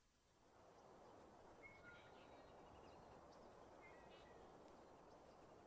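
Faint birdsong, a few short chirps, over a soft steady outdoor hiss that fades in about half a second in.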